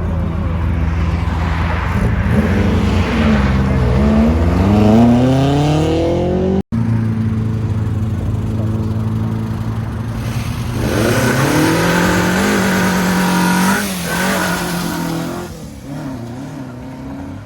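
Car engines at a car meet revving and accelerating away, in two passages split by an abrupt cut. In each, the engine idles and then climbs in pitch as it pulls off. The second one holds its revs, drops back and fades away near the end.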